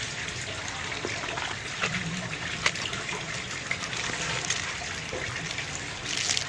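A steady hiss with scattered light clicks and taps from small bolts and air-rifle parts being handled.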